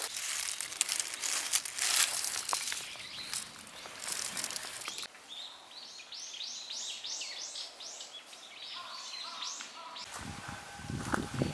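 Rustling and crackling of dry firewood being handled for about five seconds. Then a songbird sings a quick run of about a dozen descending chirps, and a few low thuds come near the end.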